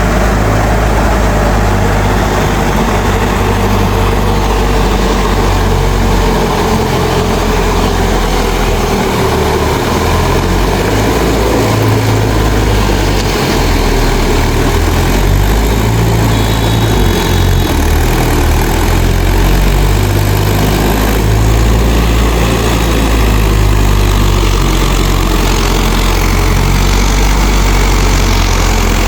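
Mahindra 4WD DI tractor's diesel engine running steadily, a loud, even low drone that does not rise or fall.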